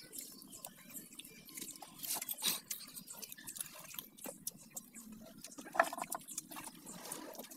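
Raw jicama being bitten and chewed close to the microphone: irregular crisp crunches and wet mouth sounds, loudest about two seconds in.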